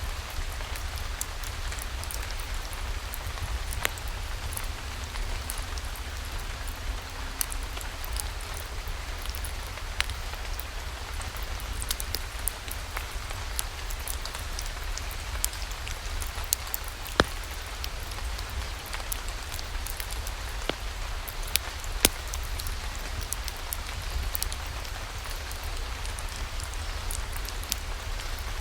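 Steady rain falling, with scattered sharp clicks over it and a low rumble underneath.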